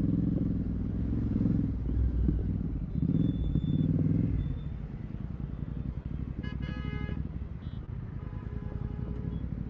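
Royal Enfield Continental GT 650's parallel-twin engine through a Red Rooster exhaust with no dB killer, pulling loudly under throttle for about four seconds, then easing off to a quieter, lower note. Another vehicle's horn honks briefly about two-thirds of the way in.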